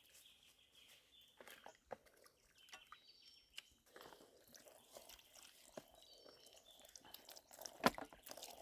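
Faint outdoor ambience of scattered light clicks and knocks, with a couple of brief high chirps and one sharper knock near the end.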